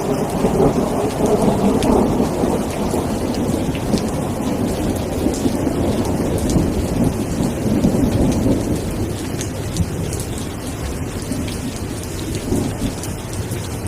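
Steady rain falling, with a low rumble of thunder that rolls on and slowly fades over the second half.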